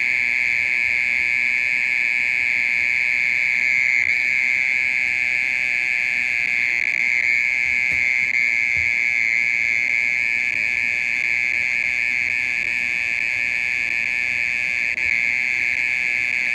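Mole cricket singing: a loud, steady, unbroken high trill.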